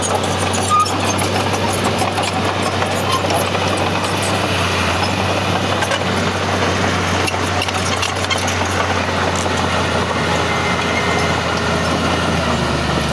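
Heavy diesel earthmoving machinery engine running steadily under work, with scattered light clicks; the engine note drops slightly near the end.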